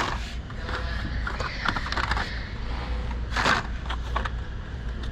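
Blister-packed Hot Wheels cars being shuffled and handled, a string of plastic clicks and scrapes with a longer, louder rustle about three and a half seconds in, over a steady low hum.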